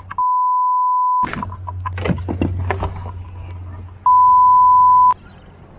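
Two censor bleeps, each a steady pure beep about a second long, about three seconds apart; the first blanks out all other sound. Between them come short clicks and knocks over a low steady hum.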